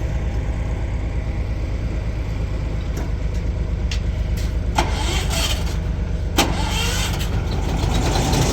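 An engine running steadily, with a few sharp knocks and clinks over it.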